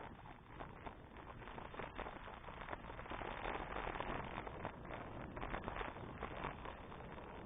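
Riding noise of a bicycle: a steady rumble with frequent small crackles and clatters, a little louder from about three seconds in.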